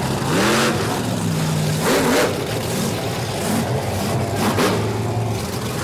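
Large monster truck engine running with three short revs, each rising quickly in pitch and falling back to a steady idle.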